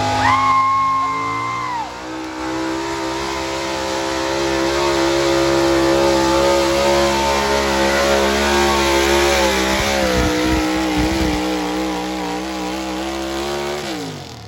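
Super Stock 4x4 Ford pulling truck's engine at full throttle pulling the sled, holding high revs with the pitch wavering in the second half, then winding down sharply near the end as the throttle is cut at the end of the pull. A brief high two-note tone sounds in the first two seconds.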